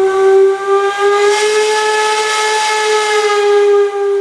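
Steam whistle on a 1922 Minneapolis steam traction engine blowing one long, steady blast.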